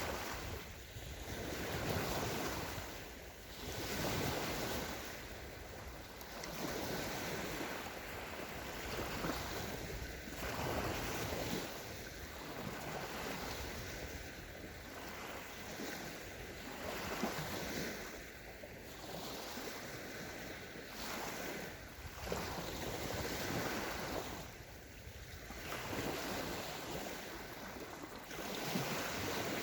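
Small sea waves washing onto a sandy beach, the surf swelling and easing every two to three seconds.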